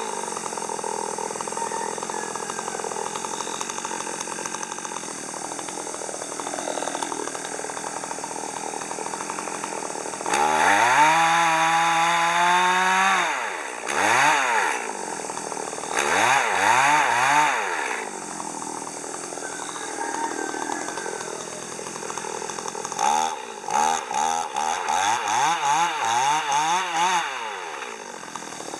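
Two-stroke chainsaw idling, then revved high and held for a few seconds about ten seconds in. Shorter revs follow, then a run of quick throttle blips near the end.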